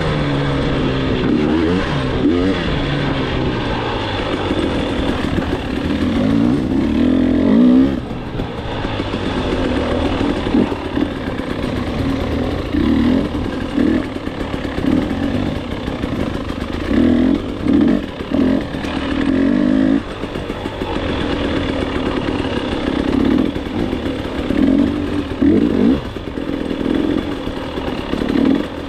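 Dirt bike engine revving hard and shifting through the gears on a trail, its pitch climbing and dropping again and again as the throttle is opened and closed.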